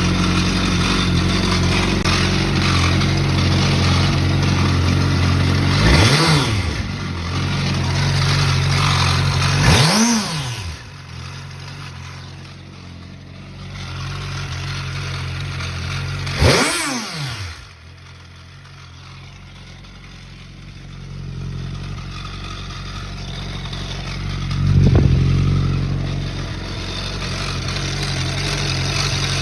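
Suzuki GSX-R motorcycle's inline-four engine idling and blipped: three quick revs that rise and fall in pitch, and a smaller one near the end, with the idle dipping lower after the revs. The owner says the engine sounds bad, without naming a fault.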